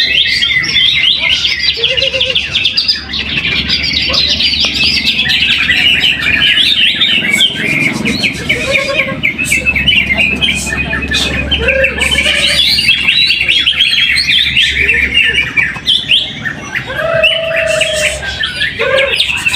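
Cucak hijau (greater green leafbird) singing a long, unbroken run of rapid chirps and trills.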